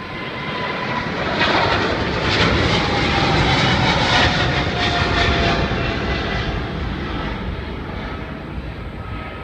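Jet airliner taking off at full thrust: a loud engine roar that builds, peaks about two to five seconds in, then slowly fades, with a high whine sliding down in pitch as it passes.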